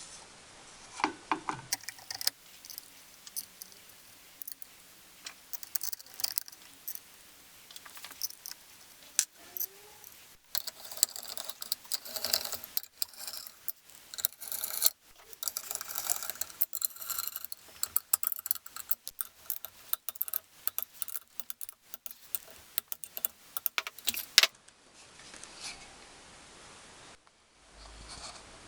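Dense, irregular metallic clicks and clinks of hand tools and engine parts being handled, packed close together as in sped-up timelapse audio. They stop suddenly near the end.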